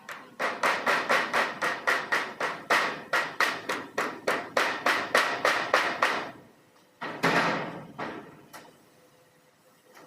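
Hammer blows struck in a fast, even run of about four a second for some six seconds, followed by a short rougher burst and one last single blow.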